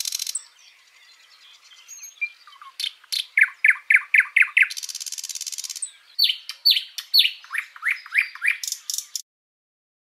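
Songbird singing: runs of quick downward-sliding whistled notes, about four a second, broken by a dense high buzzing passage. It cuts off abruptly near the end.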